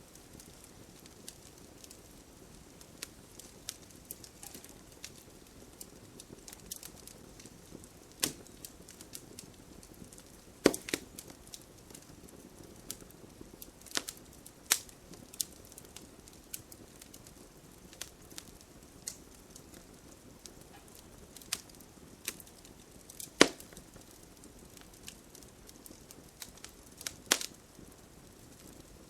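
Wood campfire burning, a soft steady hiss broken by irregular crackles and sharp pops; the loudest snaps come about 11 and 23 seconds in.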